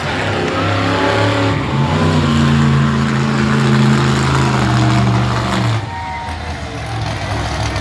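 Monster truck engine running loud and held at a steady pitch for several seconds, then dropping off sharply about six seconds in.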